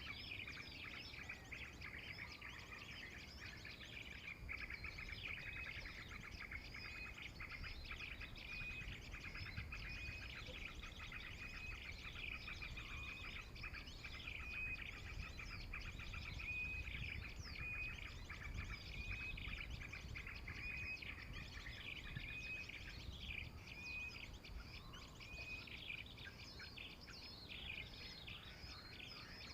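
Many small birds chirping and calling rapidly, with one short high call repeated about once a second through the middle, over a low steady rumble.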